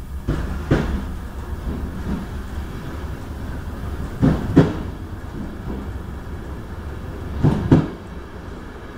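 Passenger train wheels running along the track with a steady low rumble, with three loud double clacks, each pair quick, as the wheel sets cross rail joints. The train is passing into a stone tunnel.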